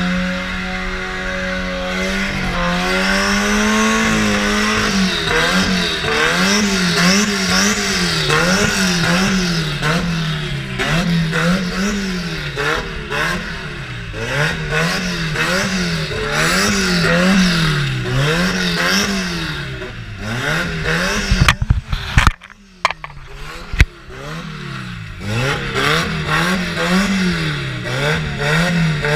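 Vehicle engine revved up and down over and over in an even rhythm, about once a second, with a rushing hiss underneath. About two-thirds of the way through it breaks off briefly, then picks up again.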